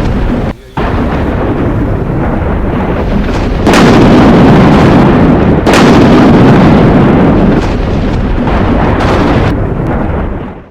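Thunder rumbling loudly, with a short break about half a second in and a louder swell from about four to nearly eight seconds in.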